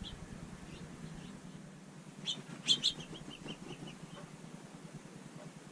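House finch chirping: a few sharp chirps about two and a half seconds in, followed by a quick run of fainter short notes.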